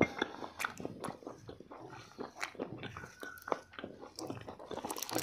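Close-up chewing and biting at a meal: soft, irregular crunches and small wet clicks of food being eaten.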